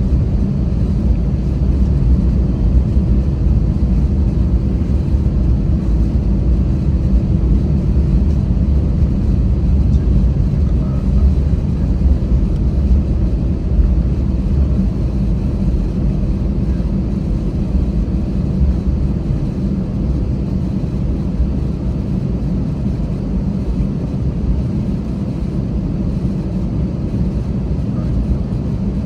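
Airbus A320 cabin noise from a window seat: a steady low rumble of jet engines and airflow, with a faint steady hum that fades out about twelve seconds in.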